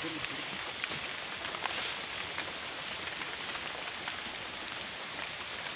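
Steady light drizzle falling on river water and leaves, a soft even hiss with scattered ticks of single drops.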